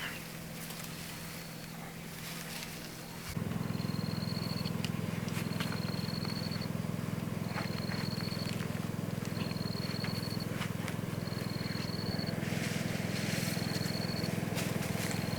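A steady low motor hum starts abruptly about three seconds in and runs on. A short high chirp repeats about once a second over it.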